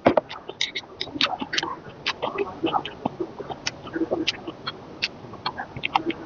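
Close-miked mukbang eating sounds: a person chewing noodles and bean sprouts from spicy Korean hangover soup (haejangguk), with a quick, irregular run of wet, sharp mouth smacks and clicks.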